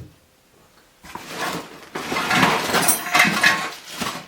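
Rummaging through a box of tractor parts: metal parts clattering and clinking for about three seconds, starting about a second in.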